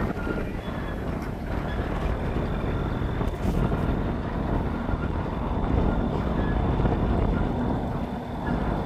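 Freight train rolling past, a steady low noise with a faint, steady high-pitched tone over it, and wind buffeting the microphone.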